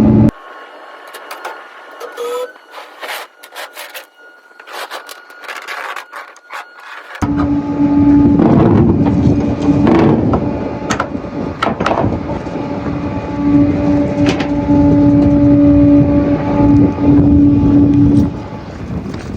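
Flatbed tow truck running with a steady hum. Near the start it drops away abruptly, leaving several seconds of light metallic clicks and clanks, and it returns sharply about seven seconds in with scattered knocks over it.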